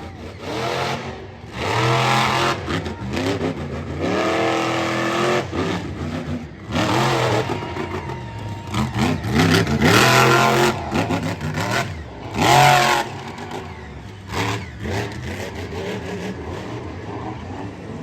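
Monster truck engine revving hard in repeated bursts, its pitch sweeping up and down, loudest around ten and twelve seconds in, then settling to a lower steady running sound near the end.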